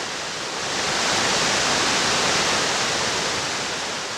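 Steady rushing roar of a large waterfall, a dense hiss of falling water that swells slightly in the first second and then holds.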